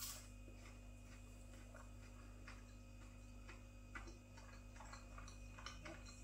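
Faint chewing of a battered halloumi fry: soft, irregular crunches and mouth clicks over a low steady hum.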